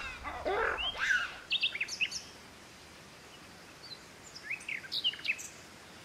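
Birds chirping in short, high calls, in two clusters about a second and a half and about five seconds in. A brief voice-like sound comes in the first second.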